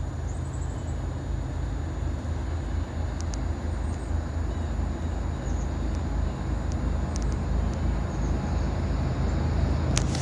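Distant rumble of an approaching CSX intermodal freight train led by GE diesel-electric locomotives, growing gradually louder. A few faint sharp clicks, the last near the end.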